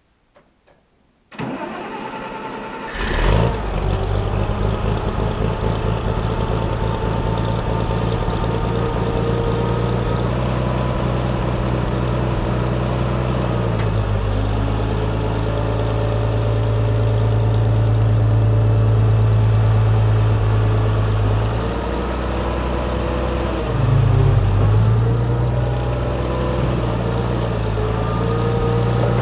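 A 1962 Farmall 460 tractor engine cranking on the starter and catching about three seconds in, then running steadily, its speed dropping and picking up again a few times.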